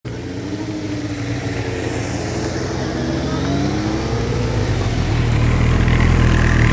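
Racing sidecar outfits' motorcycle engines: one idling steadily close by while others ride past, their engine notes gliding up and down in pitch. The sound grows louder toward the end as an outfit pulls up alongside.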